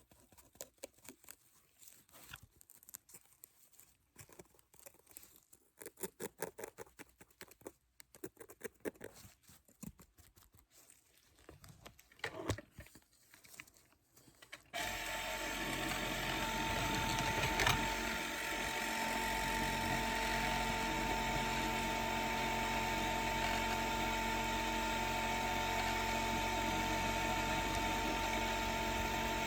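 Light handling clicks and taps. About halfway through, a dental drill starts and runs with a steady whine.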